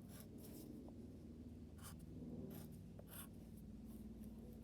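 Pencil drawing short strokes on paper, faint: a series of quick separate scratches as the cat's whiskers are drawn.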